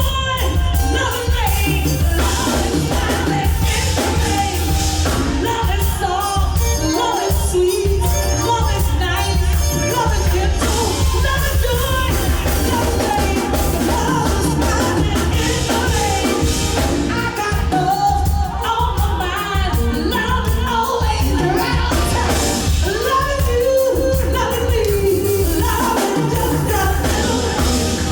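A singer's voice over a live band playing a song, with a heavy, steady bass line.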